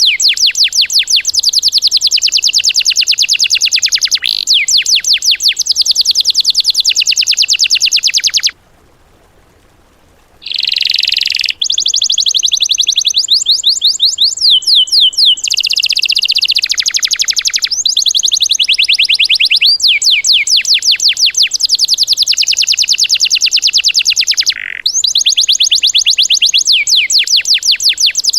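Recorded songbird 'tembakan' filler song used as training material for songbirds: rapid machine-gun trills of sharp, high, downward-sweeping notes in bursts of a few seconds, with a short silent break about nine seconds in.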